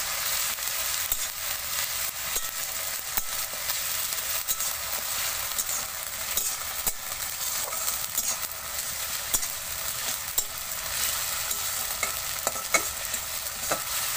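Onion with ginger, garlic and green chilli paste sizzling in hot oil in a metal kadai, lightly frying, while a metal spatula stirs it and clicks and scrapes against the pan at irregular moments.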